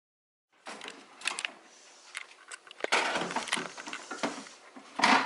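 Irregular clicks, knocks and rustling, like objects being handled, with a louder burst near the end.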